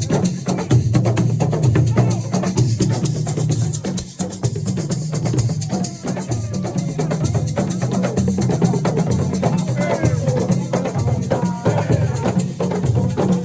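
Assiko percussion music: drums and rattling shakers in a fast, dense rhythm, with voices joining in near the end.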